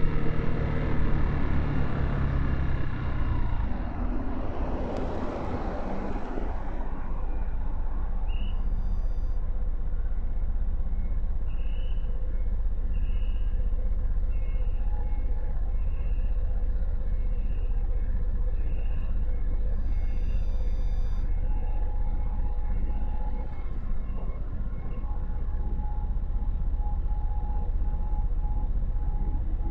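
Motorcycle engine slowing down in the first few seconds, then running at a low steady rumble amid city traffic. A brief rush of noise passes a few seconds in, and a short high beep repeats about once a second for a stretch in the middle.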